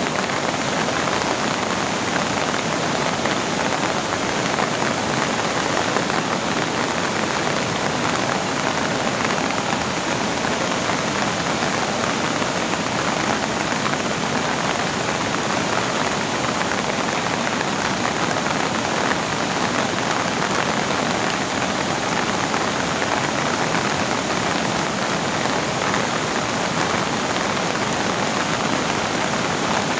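Steady hiss of a heavy storm downpour together with fast-flowing floodwater.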